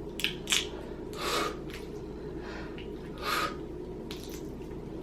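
Close-up eating sounds from boiled crawfish: several short wet sucks and slurps, a few spaced about a second apart, over a steady low hum.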